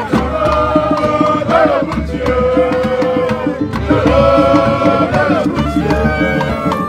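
Live ogene band music: a voice singing long held notes over a steady beat of drums and percussion.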